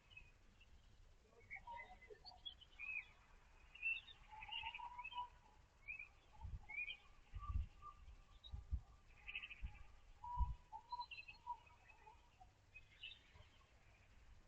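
Small birds chirping with short, scattered calls, and a few dull low thumps midway through.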